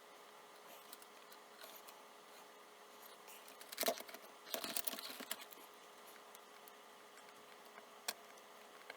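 Small clicks and rustling from hands handling small parts or tools. A burst of louder clicking and rustling comes around four to five seconds in and a single sharp click near the end, over a faint steady hum.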